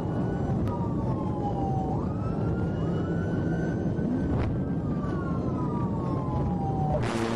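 Police car siren in wail mode, slowly sweeping up and down in pitch, over steady road and engine noise. Near the end it gives way abruptly to a louder, steady engine drone.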